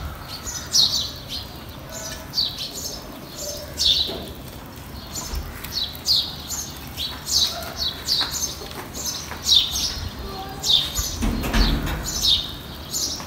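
A small bird chirping over and over, short sharp chirps that fall in pitch, about one or two a second.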